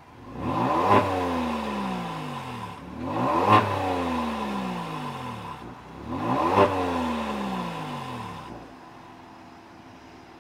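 Kia Stinger 3.3T's twin-turbo V6 revved three times through an aftermarket variable-valve exhaust with dual rear mufflers. Each rev climbs quickly and falls back, and the engine settles to a steady idle near the end.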